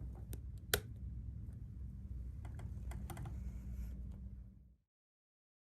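A few scattered light clicks and taps over a steady low room hum, with one sharper click about a second in. The sound fades out to silence near the end.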